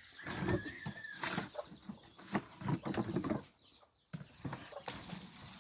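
A bird's long, high call, held steady and ending about a second in, followed by scattered short knocks and rustles.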